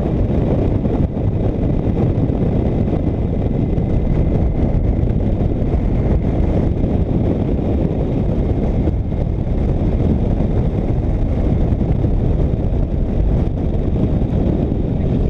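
Motorcycle under way at speed: steady wind rush buffeting the microphone, over engine and road noise.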